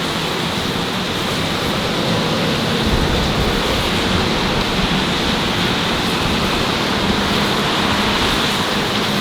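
Steady rush of busy city road traffic, with a vehicle passing close about three seconds in.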